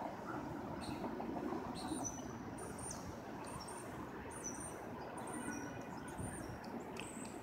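Small birds chirping in quick, high, repeated notes over a steady low background rumble.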